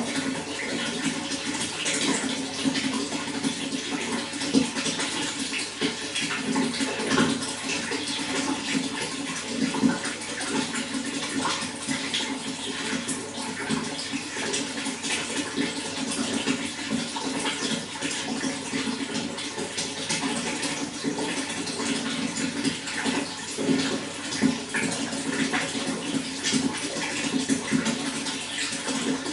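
Running water flowing steadily, with a constant patter of small splashes and gurgles and no change in strength.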